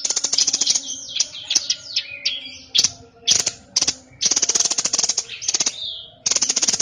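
A caged songbird of the kind Indonesian bird-keepers call 'sniper' (burung sniper) singing loudly and without pause. Its song is fast rattling trills of sharp, high notes, broken around the middle by several downward-sliding whistles.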